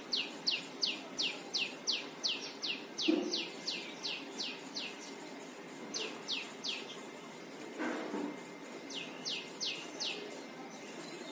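A bird calling in rapid runs of short, high, downward-slurred chirps, about three or four a second. A long run stops about five seconds in, and two short runs follow.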